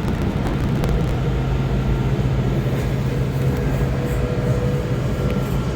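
Kawasaki 7000-series Metrorail subway car heard from inside, running with a steady low rumble and hum as it nears a station stop. Fainter steady whining tones join partway through.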